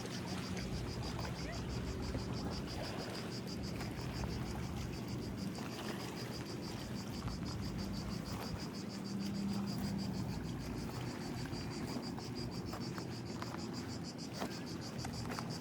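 Insects chirping in a steady high pulse, about five pulses a second, over a low outdoor rumble.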